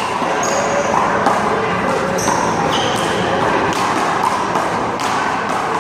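Steady outdoor background noise with indistinct voices and a few sharp smacks from a one-wall handball rally, a small rubber ball being struck by hand and hitting the wall.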